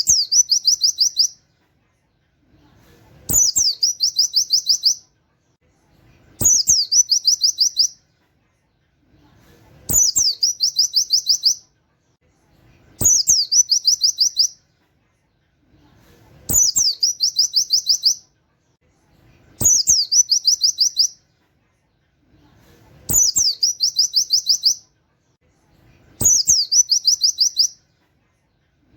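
A pleci (white-eye) song: a short phrase repeated at even intervals about every three seconds. Each phrase is a quick sweeping note followed by a rapid run of high, canary-like 'wit wit' notes lasting about a second and a half, and each starts with a faint click.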